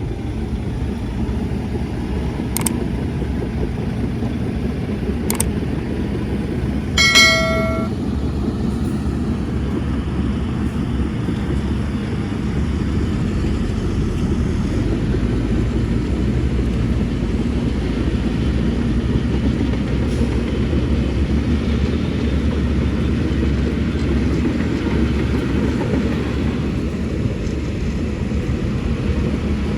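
Heavy earthmoving machinery's diesel engine running steadily with a deep rumble. Two sharp clicks come a few seconds apart, then a short, high horn-like beep about seven seconds in, the loudest sound.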